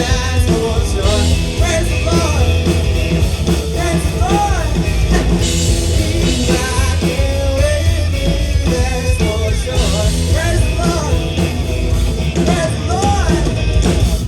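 Loud amplified live band music with a heavy bass beat and a lead melody line rising and falling over it.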